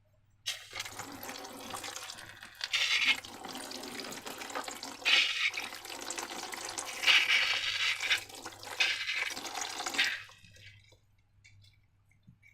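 Liquid pouring and sloshing for about nine seconds, swelling louder four times, then stopping.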